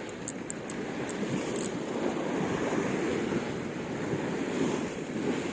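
Strong wind buffeting the microphone over surf at the shore, a steady rushing noise. A few short, high clicks come in the first second and a half.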